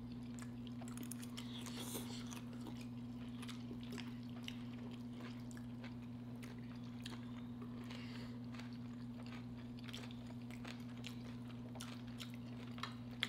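Close-miked chewing and mouth smacks of people eating braised short ribs and risotto, with small clicks of forks on the plates. A steady low hum runs underneath.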